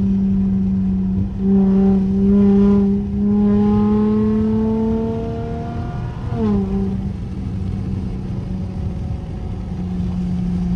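Straight-piped V6 exhaust of a Dodge SXT accelerating under an automatic gearbox: the note climbs, drops sharply at upshifts about a second in, three seconds in and just after six seconds, then settles into a steady drone.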